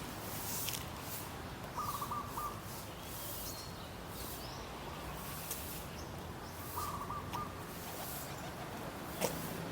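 A bird calling twice, a short trilled call repeated about five seconds apart, over steady outdoor background noise.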